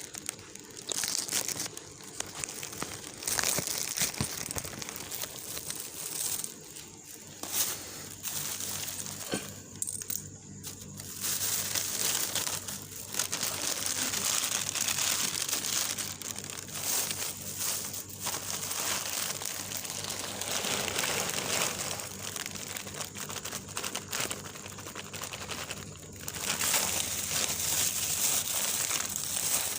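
Irregular crinkling and rustling in uneven bursts, with a faint steady low hum underneath from about eight seconds in.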